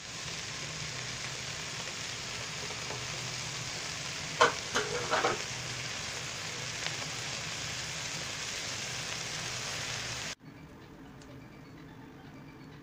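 Vegetables and meat sizzling as they are stir-fried in an aluminium pot with a wooden spatula, with a few sharp knocks about four and a half seconds in. The sizzle cuts off abruptly about ten seconds in, leaving a much quieter steady background.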